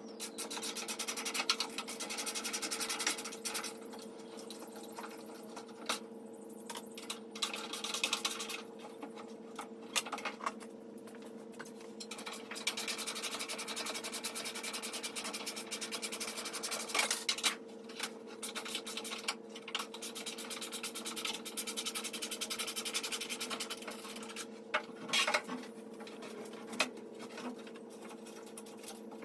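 Sped-up time-lapse work sounds from stripping out a Volkswagen Beetle's wiring harness: rapid rubbing, scratching and clicking that come and go in stretches, over a steady hum.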